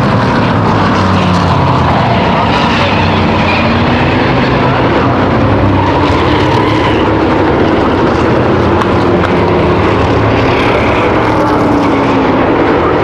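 Pack of V8 stock cars and trucks racing on a short oval, many engines running together at speed, their pitch slowly rising and falling as they pass.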